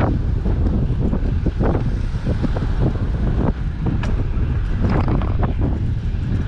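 Wind buffeting the microphone while cycling, a steady low rumble, with a few short clicks or knocks scattered through it.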